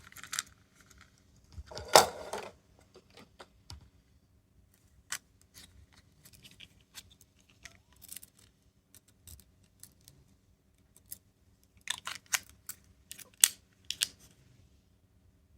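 Small plastic toys being handled: scattered clicks, taps and light clatter. The loudest clack comes about two seconds in, and a quick run of clicks comes near the end.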